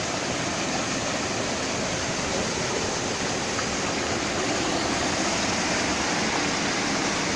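Waterfall and stream water rushing with a steady, even roar.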